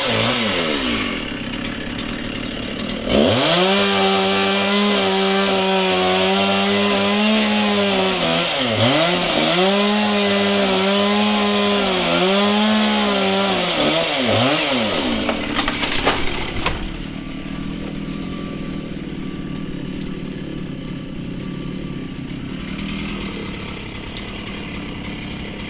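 Chainsaw idling, then revving up and cutting at full throttle for about twelve seconds with brief dips in engine speed. It cuts off near the middle as cracking and a sharp snap come from the tree giving way, and the saw then runs on more quietly at idle.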